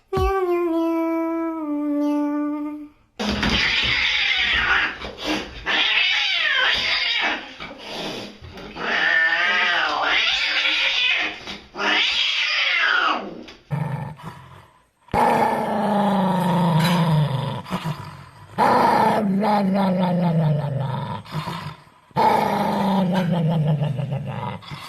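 Angry pets: a cat hissing and yowling, then a series of drawn-out growls that fall in pitch, each a few seconds long.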